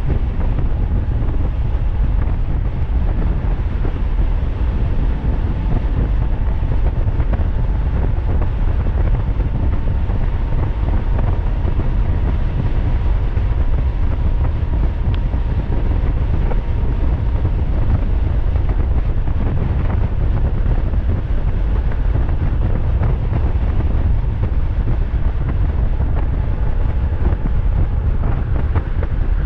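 Heavy wind rumbling on the microphone while riding a DIY e-bike fitted with a 1500-watt hub-motor kit, steady throughout, with a faint steady whine in the middle stretch.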